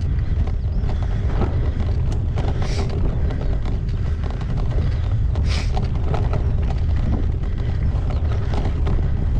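Wind buffeting the microphone of a bike-mounted action camera as a gravel bike rides along, with frequent small knocks and rattles from the bike over rough ground and two short hisses about three and five and a half seconds in.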